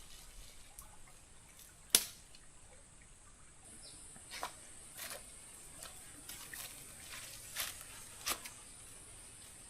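Rainwater drops falling and tapping irregularly, with one sharp, loud tap about two seconds in and a few softer ones later, over a faint steady high hiss.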